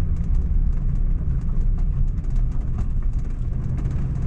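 Heavy, fully loaded camper van driving over a rough gravel and rock road: a steady low rumble of engine and tires, with many small ticks and rattles from stones under the tires and the loaded van.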